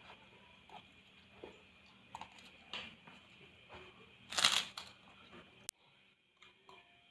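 People eating instant noodles: scattered slurps and chewing with small utensil clicks, the loudest a longer noisy slurp about four and a half seconds in, and a sharp click a little before the end.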